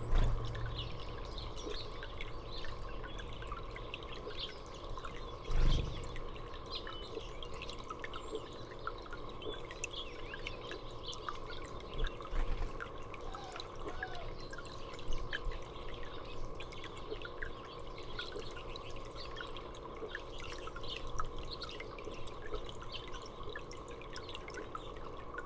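Water dripping and trickling with small birds chirping now and then over a steady low hum. There is one soft thump about six seconds in.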